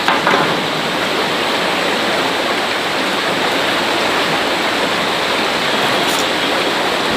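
Steady rushing of running water, close and loud.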